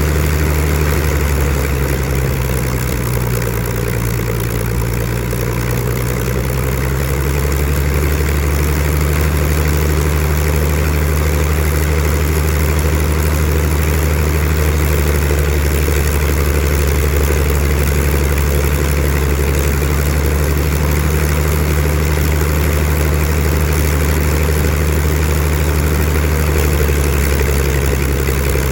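Supermarine Spitfire Mk XIV's Rolls-Royce Griffon V12 engine running steadily at low power during a ground run, its propeller turning. The engine speed sags slightly a few seconds in and picks back up.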